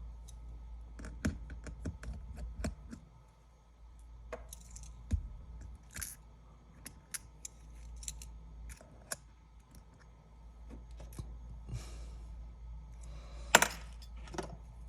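Irregular small clicks and taps of a repair tool and small parts being handled inside an opened iPad 10, with one sharper click near the end.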